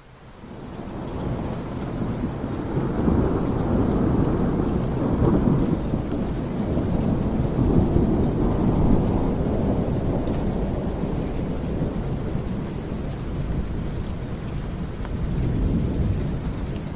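Heavy rain with a deep rolling rumble, fading in over the first couple of seconds. The rumble swells and eases in long waves.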